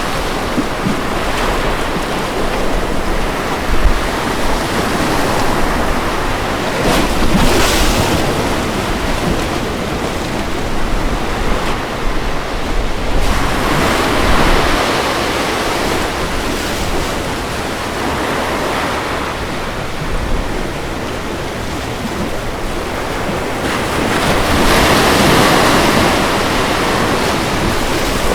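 Ocean waves breaking and washing on a beach: a continuous surf noise that swells as waves break about a quarter of the way in, around the middle, and more strongly near the end.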